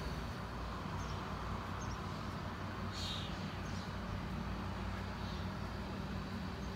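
Outdoor ambience: a steady low hum, with a few short bird chirps about three seconds in and again about two seconds later.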